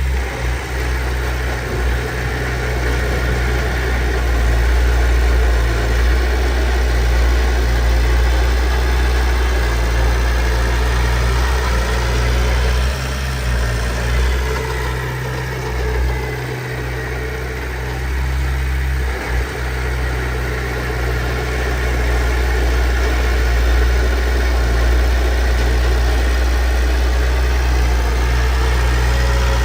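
Heavy diesel engine of earthmoving machinery running steadily, its pitch shifting a little midway.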